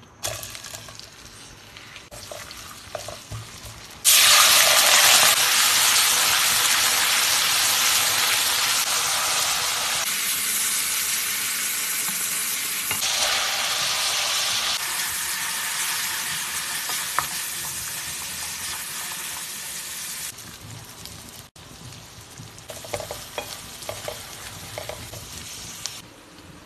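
Sliced onions frying in hot oil in a metal pan, stirred with a spatula: a loud, even sizzle starts suddenly about four seconds in and slowly dies down, giving way to a quieter crackle some twenty seconds in.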